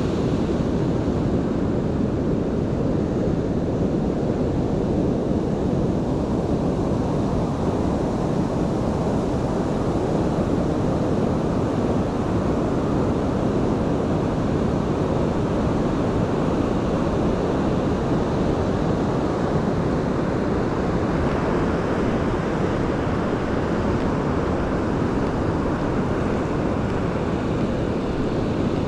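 Pacific Ocean surf, a steady, unbroken rush of breaking waves, with wind buffeting the microphone.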